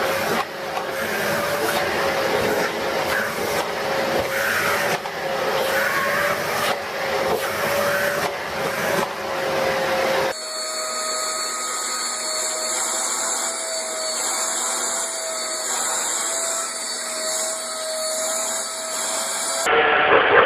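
Vacuum cleaner running with a steady whine, its pitch wavering slightly. About ten seconds in it cuts to another vacuum recording with a slightly higher, steadier whine.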